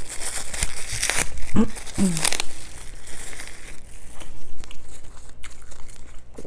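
Paper food wrapper crinkling and rustling as a fast-food sandwich is handled, with two short hummed sounds about two seconds in, then quieter scattered clicks.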